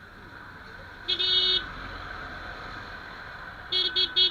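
A vehicle horn honking: one half-second honk about a second in, then three quick toots near the end, over steady road and engine noise.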